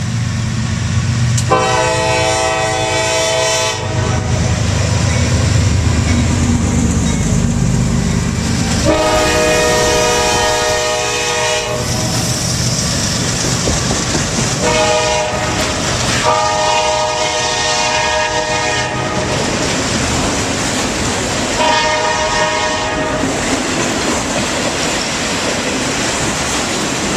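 Locomotive horn sounding the grade-crossing pattern of long, long, short, long, followed by another blast, over the rumble of the locomotive and the clatter of a train's wheels passing.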